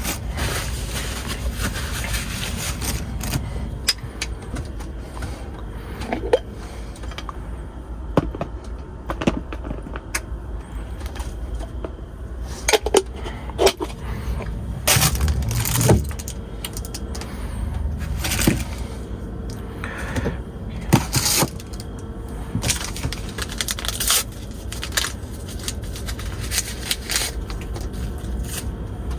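Scattered clicks, knocks and short scrapes of objects being handled, over a steady low rumble.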